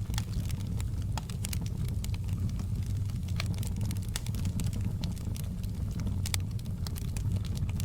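Wood fire burning in a fireplace, a steady low rumble of flames with irregular sharp crackles and pops, several a second.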